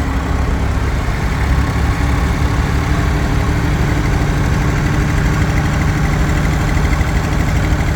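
Tractor engines running steadily at low revs with a low, even drone.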